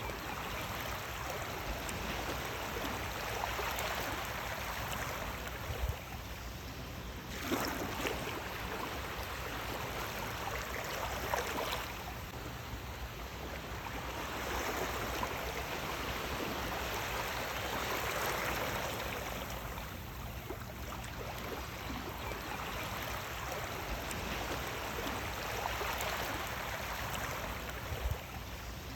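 Sea waves washing in and out, the rush of water swelling and easing every few seconds.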